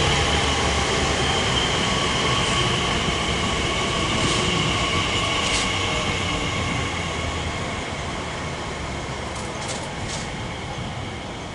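Elizabeth line Class 345 electric train slowing as it pulls into the platform to stop. A high whine sinks slightly in pitch over a rumble that gradually fades, with a few light clicks near the end.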